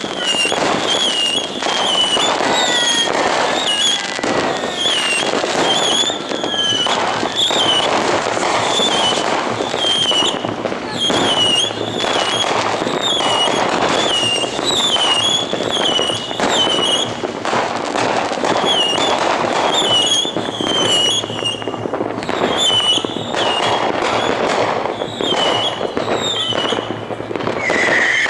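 Many fireworks and firecrackers going off at once, a dense, unbroken crackle of bangs and pops. A short high warbling tone repeats about once a second over it, and near the end a whistle starts and slowly falls in pitch.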